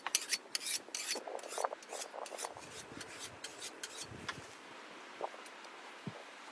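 Quick rasping, scraping strokes, dense through the first two seconds and then thinning out to a few scattered scrapes and clicks.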